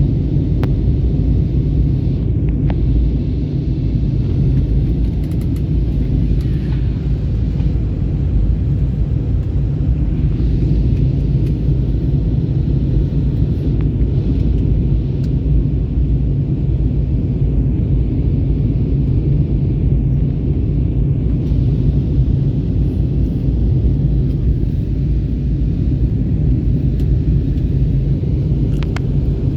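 Steady low rumble of airliner cabin noise aboard an Airbus A321neo, with a few faint clicks.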